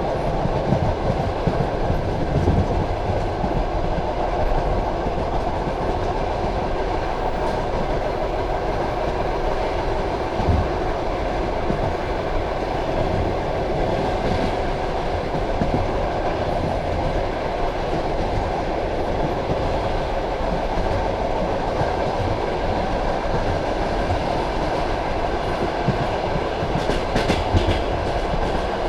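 Passenger train carriage running along the track: a steady rumble of wheels on rail, with a few separate knocks about ten seconds in, again a few seconds later, and near the end.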